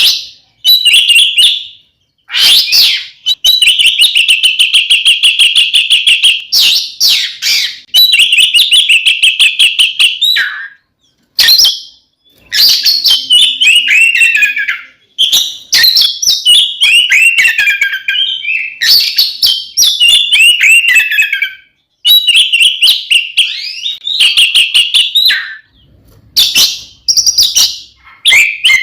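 Oriental magpie-robin (kacer) singing loud, full-voiced fighting song. Long rapid rattling trills give way, about halfway through, to strings of sharp falling whistled phrases.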